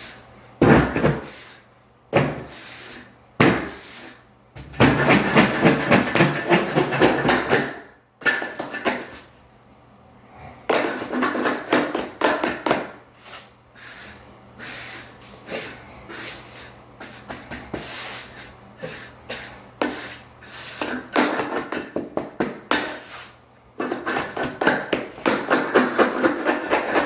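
Flat trowel scraping and packing shower pan mud (a fairly dry mortar) in quick repeated strokes, coming in several runs with short pauses between.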